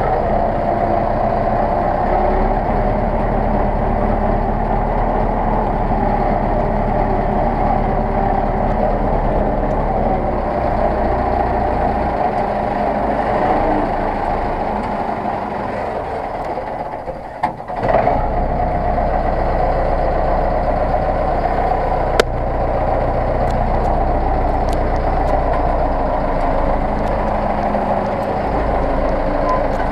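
Zetor 6911 tractor's four-cylinder diesel engine running steadily. The sound dips briefly a little past halfway, then picks back up, and a single sharp click comes a few seconds later.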